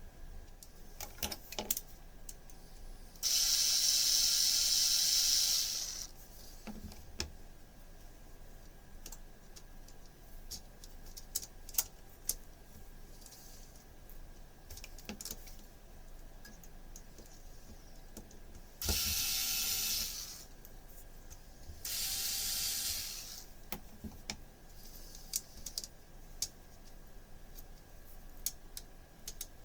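Hard plastic parts clicking and knocking as 3D-printed turntable parts are handled and fitted together, broken by three loud hissing bursts: one of under three seconds about three seconds in, and two shorter ones later.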